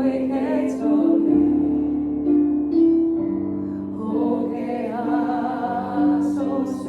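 Christian worship song: voices singing long held notes over keyboard accompaniment.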